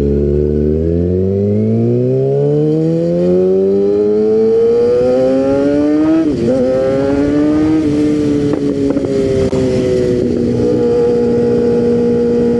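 Kawasaki ZX-6R 636 inline-four sport bike engine pulling up through the revs while accelerating. It changes gear about six seconds in with a quick dip in pitch, then settles to a steady cruise, easing off slightly, with wind rush over the microphone.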